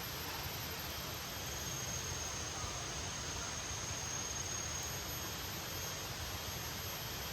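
Steady hiss of heavy rain, with a faint thin high tone in the middle.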